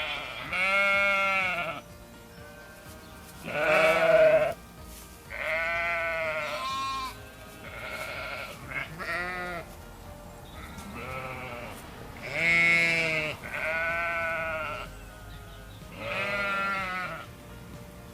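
Sheep bleating over and over, about ten wavering calls of a second or so each, one every second or two.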